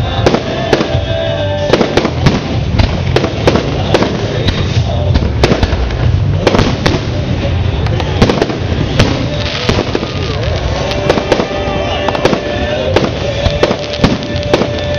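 Fireworks going off in rapid, continuous succession: a dense run of bangs and crackles with no pause.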